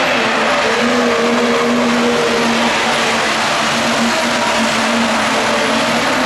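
A competition pulling vehicle's engine running loud at high, steady revs.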